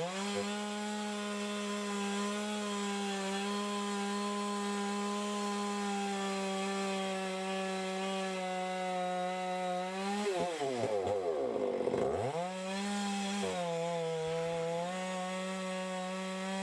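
Two-stroke chainsaw running at high revs while cutting wood, its engine note holding steady. About ten seconds in the revs drop sharply toward idle and then climb back up, and the saw settles into a steady cut again.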